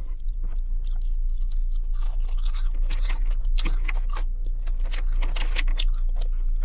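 Close-up chewing of chicken nuggets and fries, with irregular crunches and small mouth clicks.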